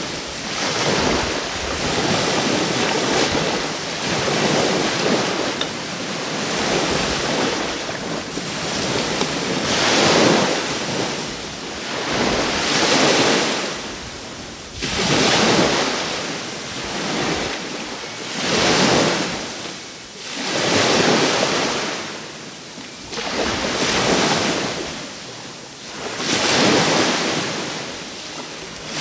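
Caribbean surf washing onto the shore: small waves break one after another, each a swell of rushing water that rises and fades about every two to three seconds.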